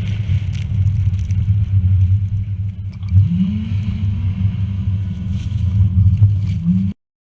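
Hummer H3 driving, a steady low engine and road rumble. About three seconds in, the engine's pitch rises as it accelerates. The sound cuts off abruptly near the end.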